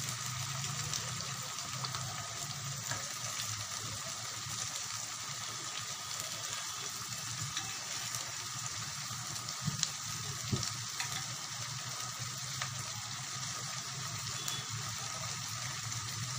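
Chopped cluster beans (guar phali) and potatoes sizzling steadily as they fry in oil in a pan on a gas stove. A couple of short knocks come about ten seconds in.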